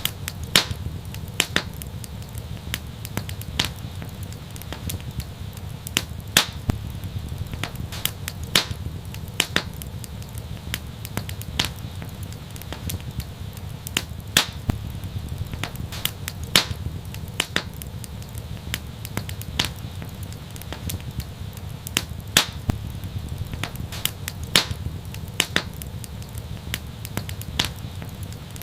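Wood fire crackling and popping: irregular sharp snaps, several a second, over a steady low rumble of the flames.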